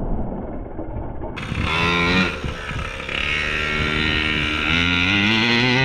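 Two-stroke gas engine of a large-scale Primal RC Raminator monster truck being run under throttle, revving up about two seconds in, holding a steady note, then revving up again near the end.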